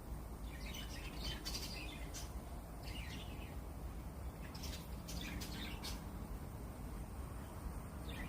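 Budgerigars chirping: scattered short, high chirps in small clusters about a second in, around three seconds and again around five seconds, over a steady low hum.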